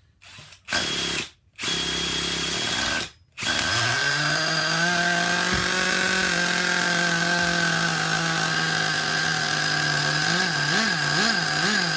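Cordless DeWalt drill driving a starter tool to spin over a small nitro RC engine for starting. It runs in two short bursts, then runs steadily, and near the end its pitch sags and recovers three times.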